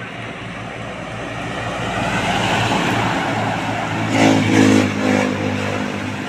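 A heavy vehicle's diesel engine running as it approaches and passes on a road, with a louder pass about four seconds in.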